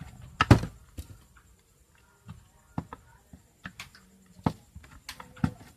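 Hand tools and metal parts of a dismantled electric iron clicking and knocking irregularly as the nuts holding its heating element are worked loose. The loudest knock comes about half a second in.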